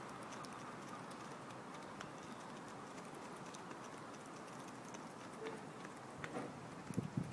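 Pigeons pecking at food: scattered faint taps over a steady background hiss, with a few louder thumps near the end.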